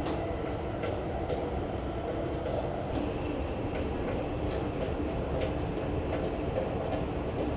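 Steady running noise inside the cabin of a Chinese high-speed train: a low, even rumble of the train moving along the track, with a few faint clicks.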